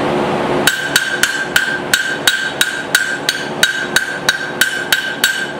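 Blacksmith's hand hammer striking hot steel on a swage block, starting under a second in: a steady run of about fifteen blows, roughly three a second, each with a bright metallic ring. The blows are squeezing in the sides of a small hammer head at the eye to lengthen it.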